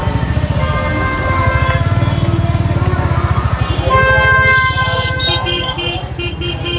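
Royal Enfield Bullet's single-cylinder engine running with a fast, steady low thump while riding.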